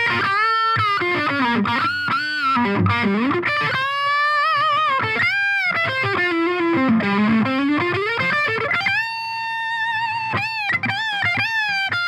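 Electric guitar played through a Biyang OTD 100 tube distortion pedal with a 12AX7 valve, playing a single-note lead with string bends and vibrato. A long note is held with sustain from about nine seconds in and cuts off near the end.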